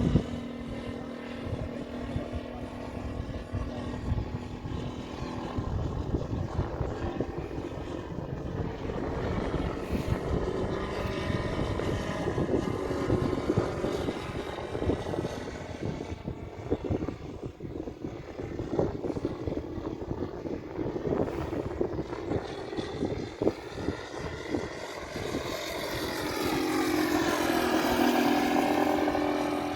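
Model aircraft's TorqPro 70cc four-stroke engine running and turning its propeller. Near the end it grows louder, its pitch dipping and then rising.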